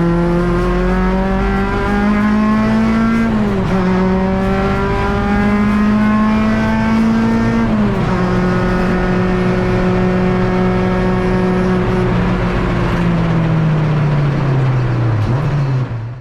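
K24-swapped Honda Civic EG race car's four-cylinder engine pulling hard through the gears. The pitch climbs steadily and drops sharply at upshifts about 3.5 and 8 seconds in. From about 12 seconds the revs fall away slowly as the car slows, and the sound cuts off just before the end.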